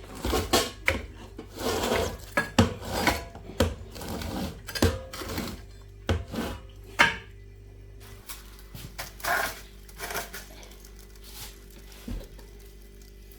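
Dishes and cutlery clinking and clattering as they are handled: a quick run of knocks and clinks in the first half, then only a few scattered ones.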